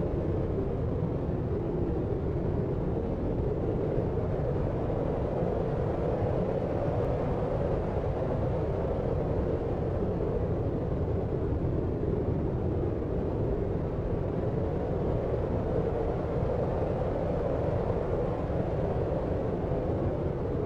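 Deep white noise for sleep: a steady, muffled, low rumbling hiss with no changes or individual sounds in it.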